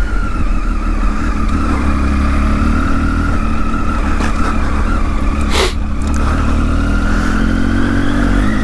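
Triumph Tiger XC motorcycle under way, its engine running steadily under a heavy low rumble of wind on the microphone, with a faint whine that drifts slightly in pitch. A single sharp click comes about five and a half seconds in.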